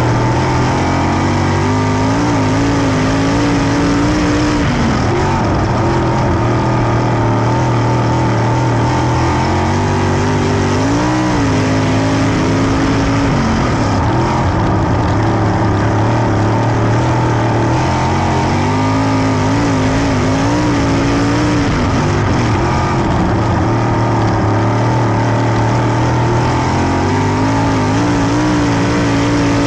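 Dirt-track 410 sprint car V8 engines running at race speed, a steady drone whose pitch climbs and falls back about every eight seconds.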